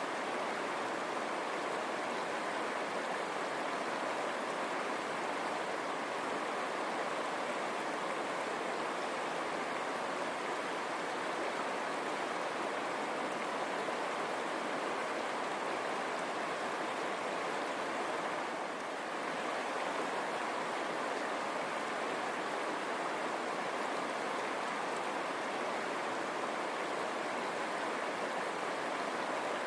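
River water running steadily over stones, a continuous rushing babble with a brief slight dip about two-thirds of the way through.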